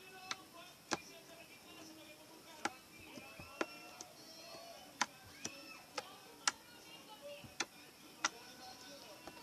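Slime being squeezed and pressed, popping in sharp clicks at irregular intervals, roughly one a second, over a faint background hum of pitched sounds.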